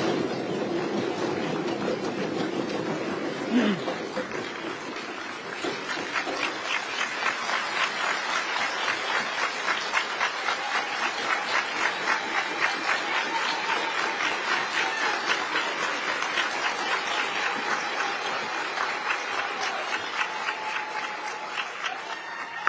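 Members of parliament responding as a crowd in a large chamber: held, droning vocal sounds for the first few seconds, then steady rhythmic clapping in time, about two to three beats a second, with a long held note over the middle.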